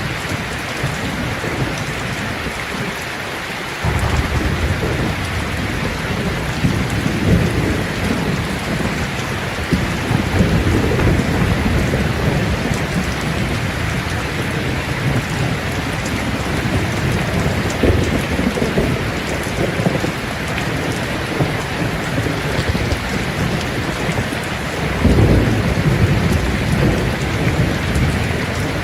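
Steady heavy rain with thunder rumbling low underneath. The rumble comes in suddenly about four seconds in, rolls on and off, and swells again near the end.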